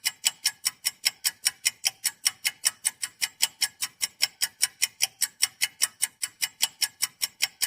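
A rapid, even ticking sound effect, about five sharp ticks a second, that starts and stops abruptly.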